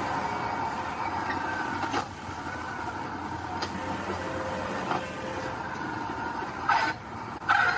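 Diesel engine of heavy earthmoving machinery running steadily, with a few sharp metallic knocks and two short louder bursts near the end.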